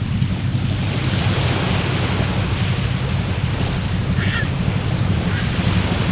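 Bonfire in a Coleman Fire Disc fire pit burning with a steady low rumble and a constant high-pitched whine over it; a brief chirp sounds about four seconds in.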